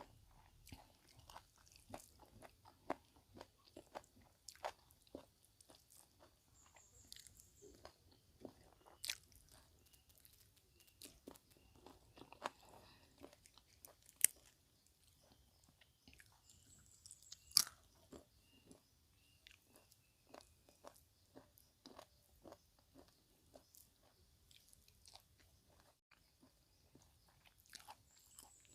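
A person eating close to the microphone: quiet chewing with irregular small crunches and bites of crisp food, a few louder sharp crunches along the way.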